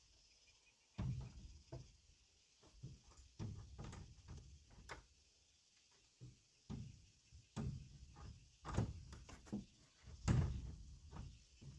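Wooden window parts knocking and thudding as they are handled and fitted together: a dozen or so irregular knocks, the loudest about ten seconds in.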